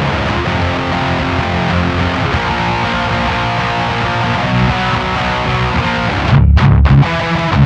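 Distorted electric guitar, an Ibanez RG8 played through a Diezel VH4 tube amp running JJ ECC83S Gold preamp tubes and Mullard EL34 power tubes. Sustained chords ring, then from about six seconds in come loud, short chugged notes broken by brief stops. The tone is mild and even across the range, sounding slightly set back.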